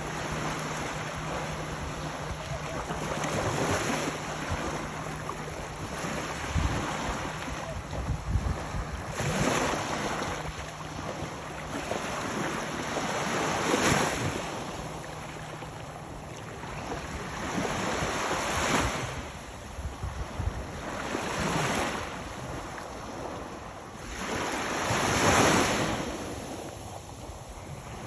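Small surf waves breaking and washing up the beach, swelling every four or five seconds, with wind buffeting the microphone now and then.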